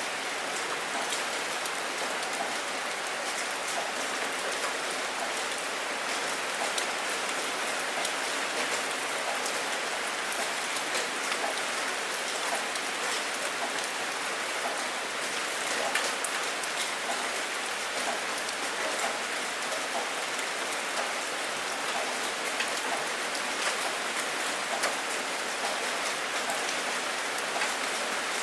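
Steady rain falling, an even hiss with scattered individual drops ticking through it and no thunder.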